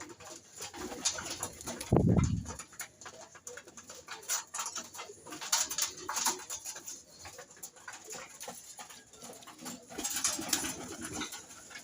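Pigeons cooing while feeding, with many small clicks and taps throughout and a short, louder low burst about two seconds in.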